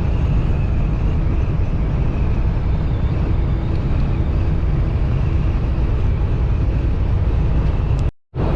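Steady low rumble of a semi-truck driving at highway speed, heard inside the cab: engine and road noise. The sound cuts out completely for a moment near the end, then resumes.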